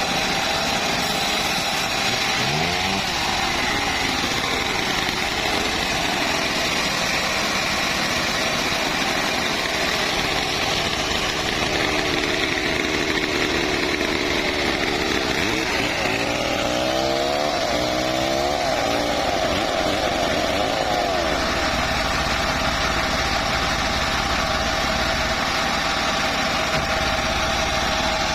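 Home-built bandsaw mill running steadily. A wavering tone rises and falls briefly near the start and again about two-thirds of the way through.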